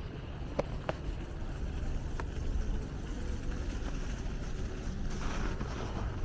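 Steady low rumble of city traffic, with a few light clicks in the first couple of seconds.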